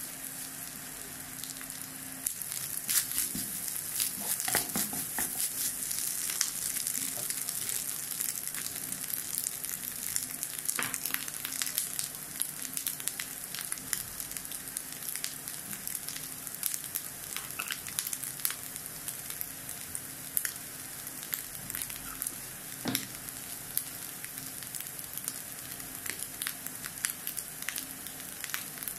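Scrambled egg bhurji frying in a non-stick kadai: a steady sizzle with frequent small crackles and pops.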